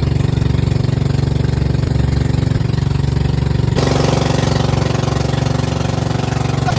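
Bangka outrigger boat engine running steadily at an even speed. About four seconds in, a broad hiss abruptly joins it.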